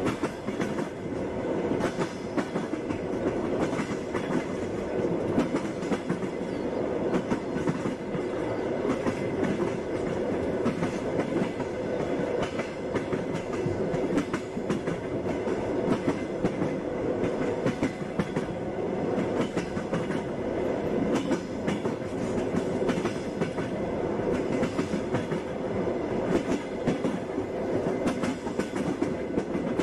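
Passenger train running on the rails: a steady rumble with the clatter of wheels knocking over rail joints, many short knocks through it.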